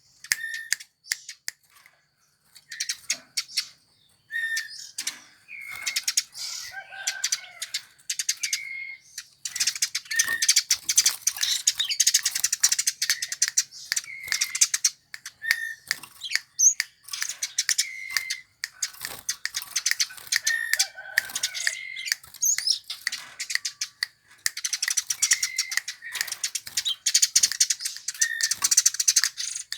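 Eurasian tree sparrow chirping rapidly and continuously, in dense runs of high chirps broken by a short, clear note repeated every second or two.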